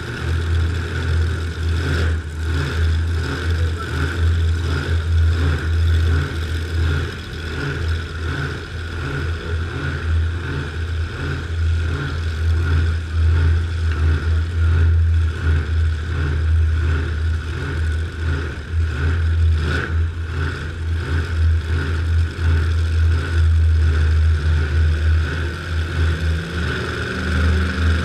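Car engine being cranked on the starter without catching, a steady churning with an even, pulsing rhythm. A higher tone joins near the end.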